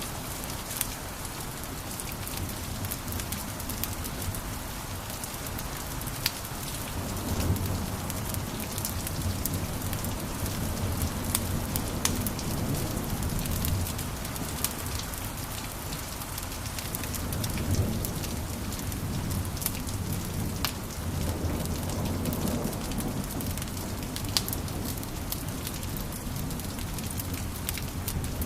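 Wood fire crackling in a fireplace: a steady hiss with frequent sharp pops, and a low rumble of flames that swells a few times.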